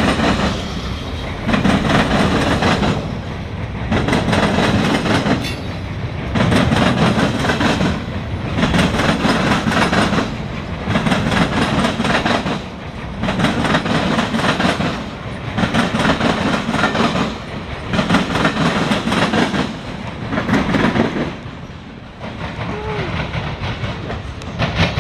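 Freight cars of a CSX local freight train rolling past, wheels clicking over the rail joints, the loud rumble swelling and fading about every two seconds.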